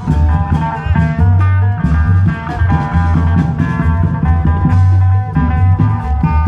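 Isan klong yao long-drum band music: pounding drums and a deep bass under a fast, busy melody of short plucked-sounding notes.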